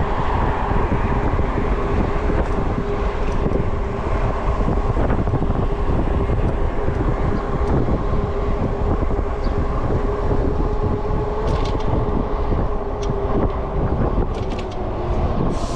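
Wind rushing over the microphone and tyre noise from an e-bike riding at speed, with a steady hum under it and a few light clicks near the end.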